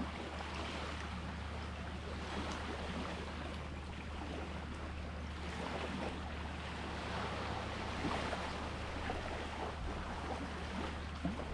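Small sea waves washing onto the shore and fizzing as they break and draw back, swelling and easing every few seconds, over a steady low hum.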